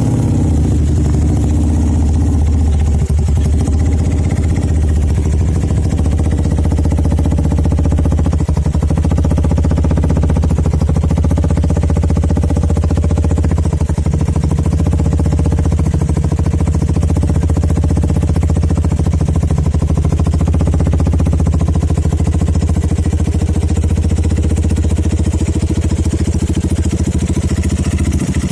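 Benelli Motobi 200 Evo EFI single-cylinder engine idling steadily and loudly through an aftermarket Sniper exhaust, with a deep, even exhaust note.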